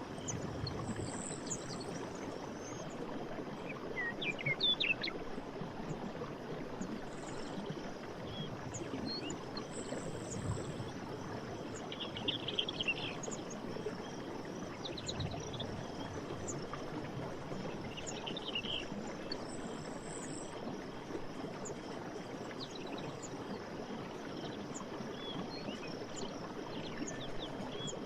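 Steady rush of running stream water with small birds chirping over it now and then: quick rising calls, short trilled phrases and brief very high notes.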